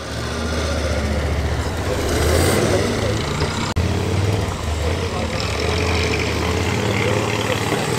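Vintage car engines running steadily as an Austin 7 and a Moto Guzzi-engined special drive away, with a brief dropout a little before halfway.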